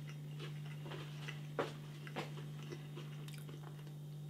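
A person chewing a crispy-coated chicken nugget: a few faint, scattered crunches and mouth sounds over a steady low hum.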